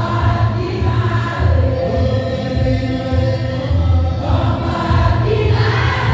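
Church choir singing a hymn with sustained notes over a steady low accompaniment.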